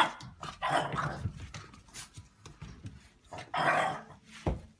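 A dog vocalizing in several short, noisy bursts, with a brief low thump near the end.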